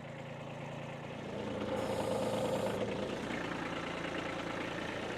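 Kubota tractor's diesel engine running, getting louder about a second and a half in as it works the loaded forks, with a brief high hiss about two seconds in.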